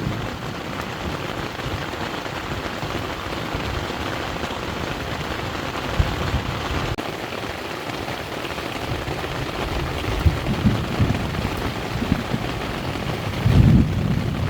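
Heavy rain of a passing thunderstorm falling steadily, with a couple of deeper low rumbles about two-thirds of the way through and again near the end.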